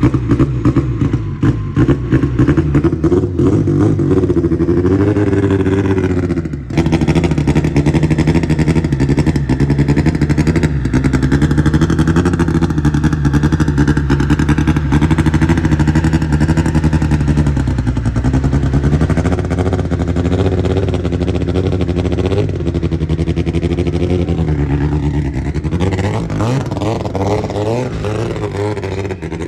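Turbocharged Honda CRX engine on E85, just fired from cold and running with its revs wavering and briefly dipping about six seconds in, held up with a little throttle because it won't idle on its own until it warms up.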